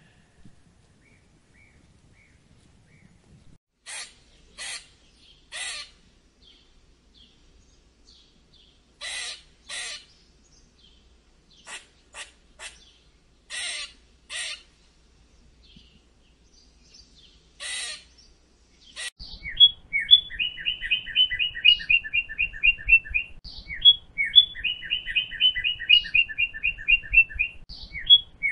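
Short harsh calls in twos and threes, then, about two-thirds of the way through, a small songbird singing rapid trilled phrases again and again, over a low rumble.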